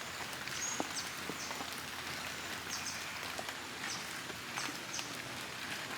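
Outdoor tropical ambience: a steady hiss with short, high-pitched falling chirps from wild animals repeating about once a second.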